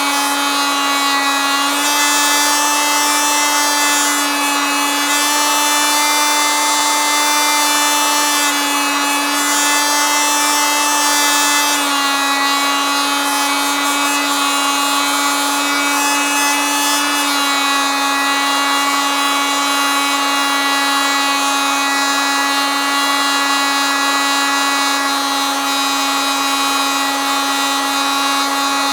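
Oscillating multitool running continuously: a steady, buzzing whine with many overtones, its pitch stepping slightly up and down a few times.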